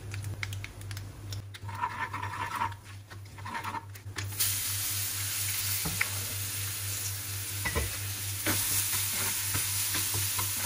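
Spices sizzling in hot oil in a nonstick frying pan with a spoon stirring and scraping; about four seconds in, a loud, steady sizzle starts as chopped tomato and onion go into the oil and are stirred.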